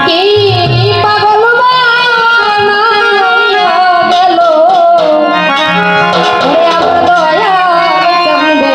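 Bengali folk song, a 'pagol gaan': a voice singing with wavering, ornamented pitch over instrumental accompaniment.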